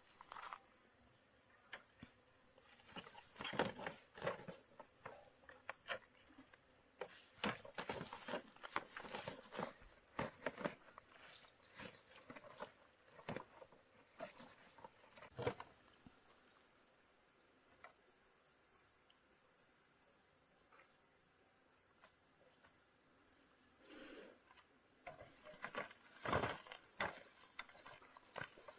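Steady high-pitched drone of insects, with scattered light clicks and knocks over it, busiest in the first half and again near the end.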